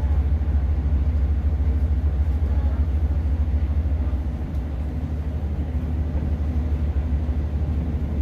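Inside a Class 150 diesel multiple unit running along the line: a steady, deep rumble of the underfloor diesel engine and the wheels on the track, easing slightly about halfway through before picking up again.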